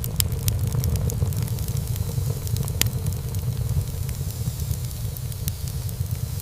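Wood fire burning in a fireplace, crackling, with a steady low rumble of flames and frequent small pops. One louder pop comes about three seconds in.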